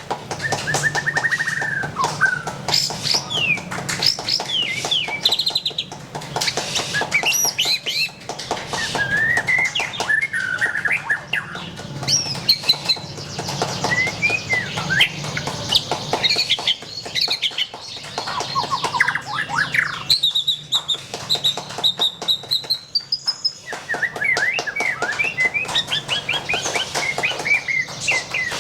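White-rumped shama (murai batu) singing vigorously and almost without pause: a varied run of clear whistles, quick trills and rising and falling phrases.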